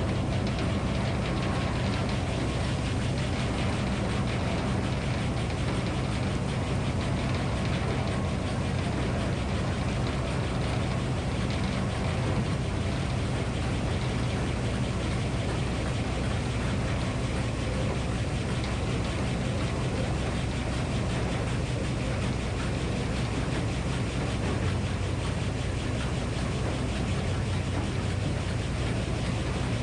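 Minneapolis Moline 605-cubic-inch engine powering a circular sawmill, running steadily at an even speed.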